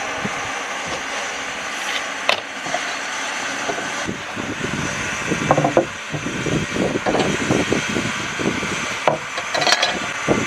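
Dry stump wood being worked with a tool: a steady scraping, with a run of quick uneven strokes in the second half and a couple of sharp knocks.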